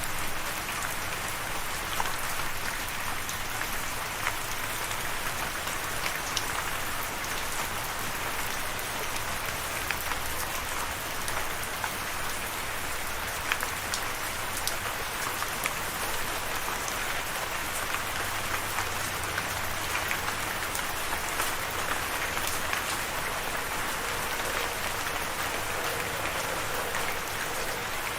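Steady rain falling: an even hiss of rain with scattered sharper drop hits.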